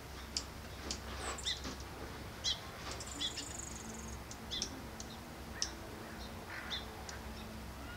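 Small birds chirping: scattered short, high chirps, with a buzzy high trill about three seconds in. A low steady hum lies underneath.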